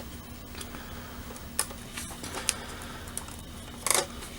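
A handful of light, irregular clicks and taps from a plastic scale model being handled, with a louder cluster near the end, over a steady low hum.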